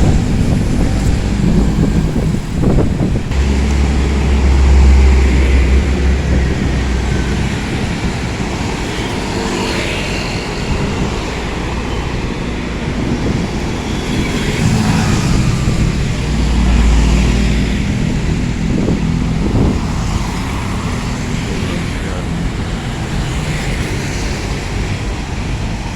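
Road vehicle running: steady engine and road noise with a deep rumble that swells twice, around four to seven seconds in and again around sixteen seconds in.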